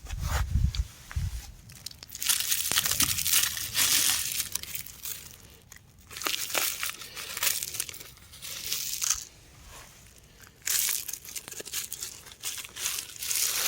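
Crumbling rock being crushed, in several bursts of gritty crunching and crackling with short pauses between them. A low rumble comes in the first second or so.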